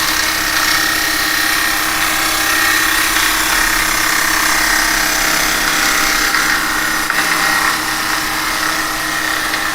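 Spindle gouge cutting spinning cherry wood on an Axminster 1628 lathe: a steady hiss of the cut over the lathe motor's constant hum. The cut runs through knots that can be heard in it.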